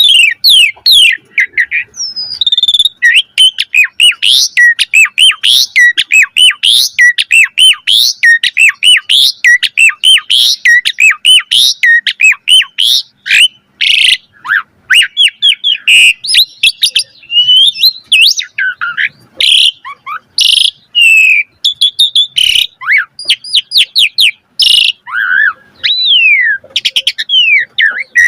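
Asian pied starling (jalak suren) singing nonstop in a long, varied run of quick sweeping whistles, chirps and rattling clicks, typical of its mimicry-filled song.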